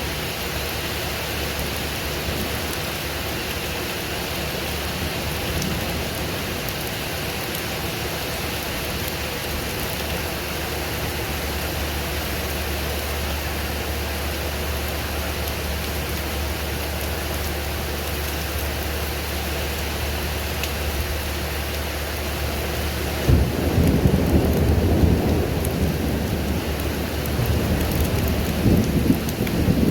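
Thunderstorm: steady rain falling, then a sudden low rumble of thunder about three-quarters of the way through that rolls on for several seconds and swells again near the end.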